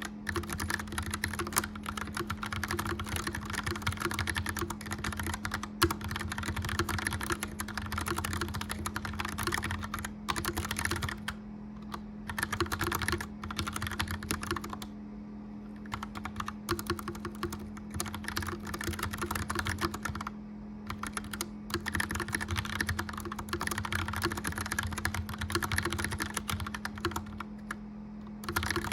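Mechanical keyboard typing: fast runs of clicky keystrokes with a few short pauses. Underneath is the steady hum of a gas fireplace fan.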